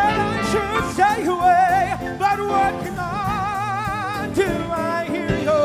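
Music: a solo singer holding long notes with a wide vibrato over instrumental accompaniment.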